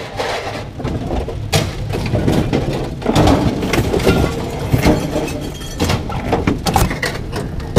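Scrap metal being unloaded by hand: irregular clanks and knocks of light iron pieces hitting each other and the pile, over a steady low rumble.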